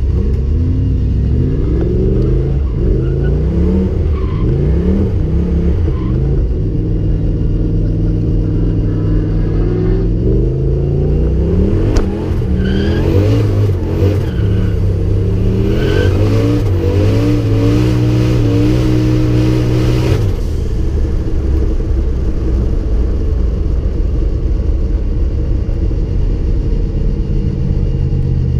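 Turbocharged 1UZ V8 in a KE20 Corolla, heard from inside the cabin, revving up and down again and again through a powerskid, with a sharp crack about halfway and a rough hiss over the engine while it revs hardest. About twenty seconds in the revs fall away and the engine settles to a steady low run.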